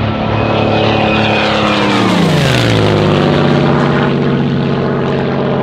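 Propeller-driven aircraft's piston engine flying past: a steady engine note that drops in pitch about two seconds in as the plane passes, then holds at the lower pitch.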